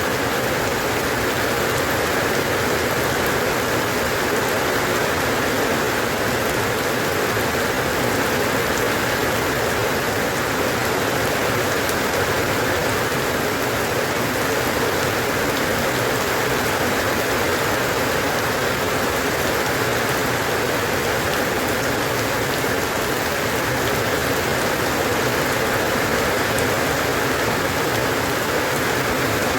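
Steady rain falling on a surface, a constant dense patter with no breaks.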